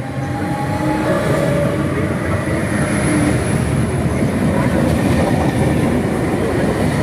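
Train running along the station tracks, loud and steady after a rise in the first second: a dense rumble of wheels on rails with faint whining tones over it.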